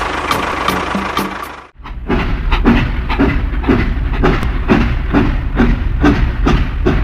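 A slow, steady chugging like a tractor engine, about two to three beats a second over a low rumble, broken by a brief cut to silence just under two seconds in.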